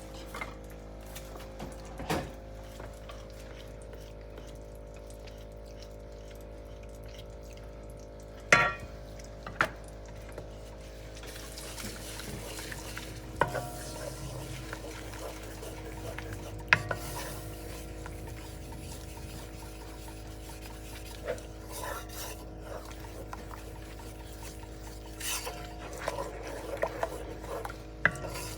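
A spoon stirring and scraping in a pot, with scattered knocks and clinks against the pan, over a steady hum.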